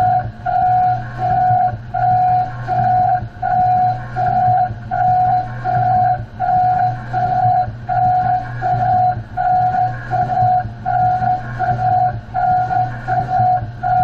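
Parts-grinding machine running in a steady rhythmic cycle: a single-pitched whine pulsing on and off about one and a half times a second over a steady low hum.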